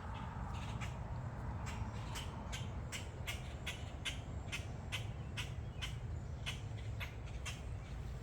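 Walking footsteps on a trail, about two short crisp steps a second, over a low steady rumble.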